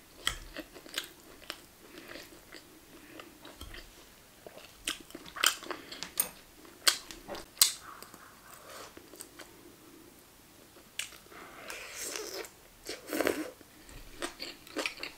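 Close-up eating sounds: wet chewing and crunching of food, with many short sharp clicks and crunches scattered irregularly throughout, among them a fork and spoon tapping on a plate and a rice bowl.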